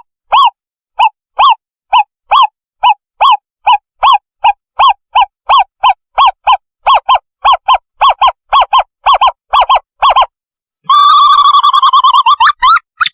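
Small owl (owlet) calling, a lure recording: a long series of short, clear hooting notes about two a second, breaking into a fast rolling trill near the end.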